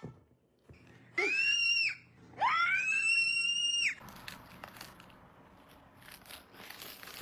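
Two loud, high-pitched screeches, the second one longer. Each slides up at the start, then holds its pitch and cuts off sharply. Fainter clicking and rustling follow.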